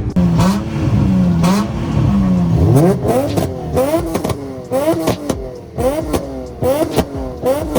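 Drift car engine revving hard. The pitch swings up and down for the first few seconds, then climbs sharply again and again, about twice a second.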